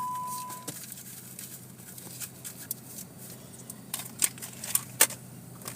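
A short steady beep that cuts off under a second in, then scattered sharp clicks and taps over a faint low hum, the loudest click about five seconds in.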